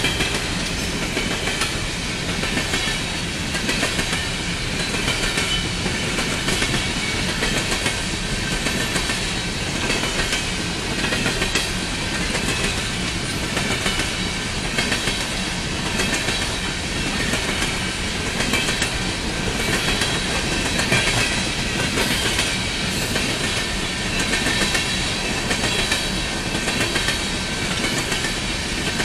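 Empty coal train passing at steady speed: a string of empty bathtub coal gondolas rolling by, their steel wheels clattering in an even clickety-clack over the rail joints.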